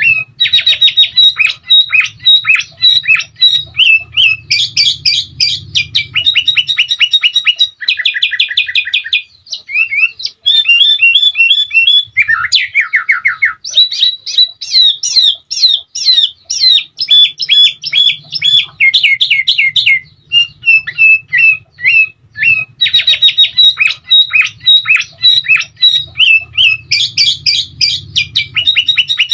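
Sooty-headed bulbul (kutilang) singing non-stop: fast runs of repeated whistled notes, chattering phrases and rolling trills with hardly a break. A faint low hum runs under parts of it.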